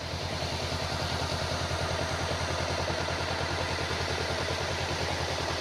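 An engine idling with a steady, even pulse.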